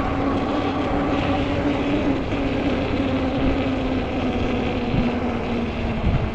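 Ecotric 20-inch folding fat-tire e-bike under way: a steady drive whine that sags a little in pitch about four and a half seconds in, over wind rumble on the microphone.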